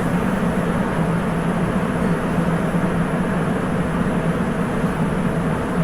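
Sapporo Municipal Subway 8000 series rubber-tyred train running at steady speed between stations, heard from inside the car: a constant rushing running noise with a steady low hum beneath it.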